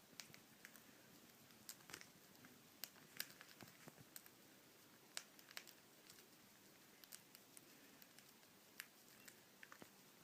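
Near silence with scattered faint clicks and taps, as of a large parrot's claws and beak shifting on a perch and hand.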